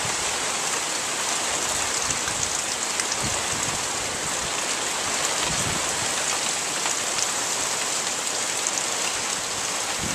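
Heavy hurricane rain pouring down steadily: a dense, even hiss that does not let up.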